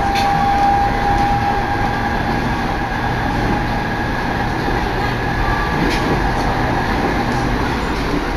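Running noise inside a moving train carriage: a steady rumble with a thin high whine over it, one whine fading out in the first second or two.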